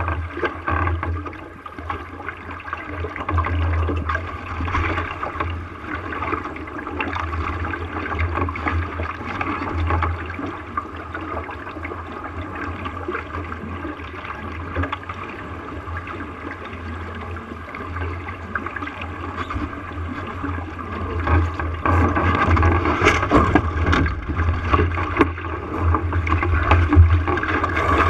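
Water rushing and splashing along the hull of a small sailboat under way, over a steady low rumble. It grows louder, with sharper splashes, over the last several seconds.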